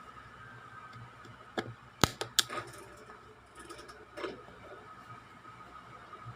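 A cluster of sharp clicks and knocks about two seconds in, with a few softer knocks later, over a faint steady hum.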